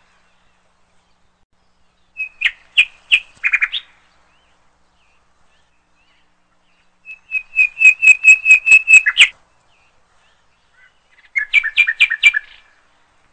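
A bird chirping in three bursts of quick repeated notes. There is a short run about two seconds in, a longer run of about a dozen notes past the middle, and a last short run near the end.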